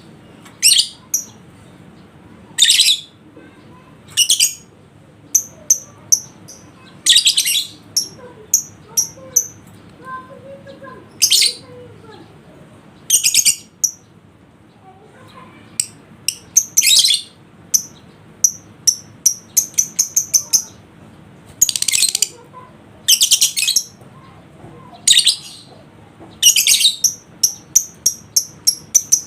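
Lovebird calling: short harsh screeches every second or two, alternating with quick runs of sharp, high chirps that come thickest near the end.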